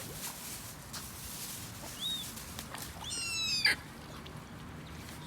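Seagulls calling: a short high call about two seconds in, then a longer, harsher call lasting about half a second a little after three seconds.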